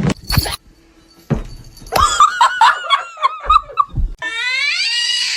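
Quick, high-pitched laughter, then about four seconds in a cat lets out one long drawn-out meow.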